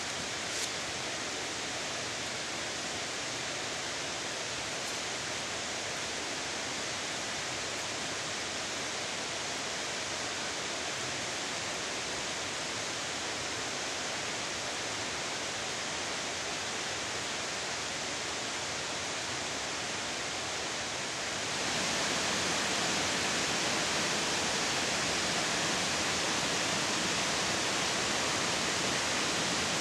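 Steady rushing noise outdoors, which steps up louder about 21 seconds in.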